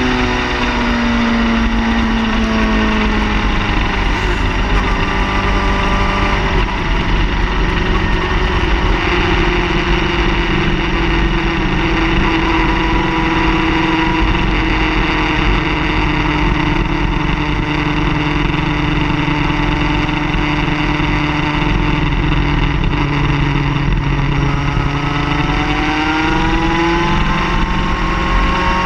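Car engine running under way with road rumble: the engine note falls as it slows at the start, holds steady, then rises again near the end as it speeds up.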